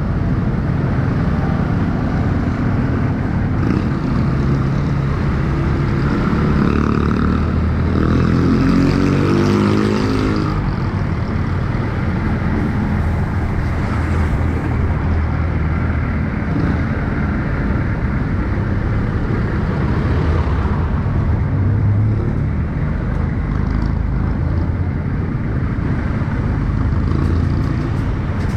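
Motorcycle engine running on the move, with steady road rumble; the engine note rises in pitch for a few seconds about seven seconds in.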